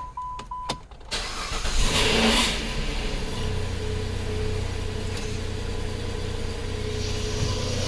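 2010 Chrysler Sebring's 2.7-litre V6 cranking and starting, flaring up briefly and then settling into a steady idle, after a few electronic beeps near the start. A thin steady whine runs over the idle, a noise the mechanics go on to trace to the power steering.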